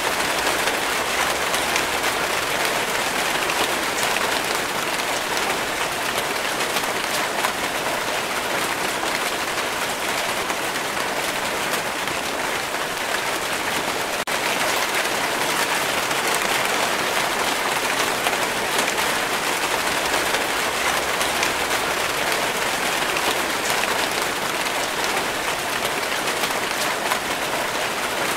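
Steady heavy rainfall: a dense, even hiss peppered with the fine crackle of countless individual drops hitting surfaces.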